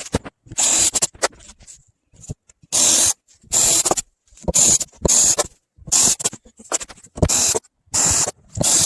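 Rhythmic back-and-forth scraping strokes of a hand tool working material, about three strokes every two seconds, starting after a short pause near the beginning.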